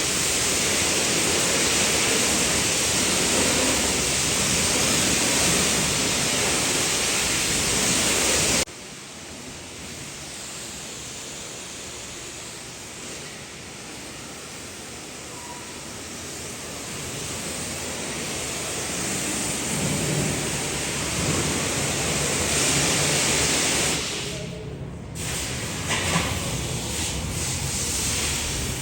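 Pressure washer spraying water: a steady hiss that cuts off abruptly about nine seconds in. A quieter spray follows and gradually builds up again, with a short break near the end and a couple of clicks just after it.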